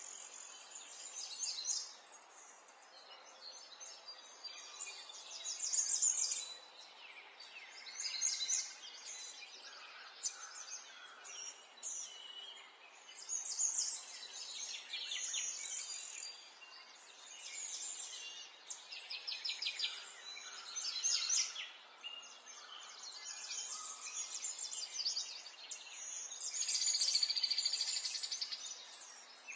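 Several songbirds chirping and trilling in rapid, high-pitched phrases, one after another, with louder bouts about six seconds in, around the middle and near the end.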